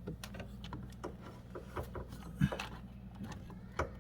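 Scattered light knocks and clicks of objects being handled, the loudest about two and a half seconds in, over a steady low hum.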